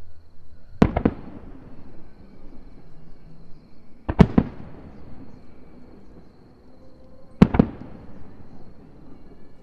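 Aerial firework shells bursting in three rounds about three seconds apart. Each round is two or three sharp bangs in quick succession, followed by a rumbling echo that fades away.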